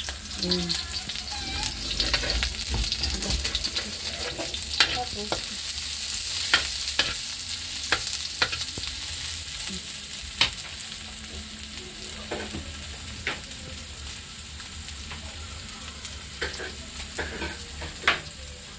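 Sliced onion and garlic sizzling steadily in oil in a black wok, stirred with a spatula that knocks and scrapes against the pan now and then with sharp clicks.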